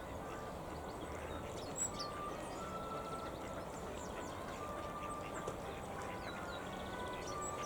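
Ducks calling on the loch, with small birds giving quick high chirps over a steady outdoor background.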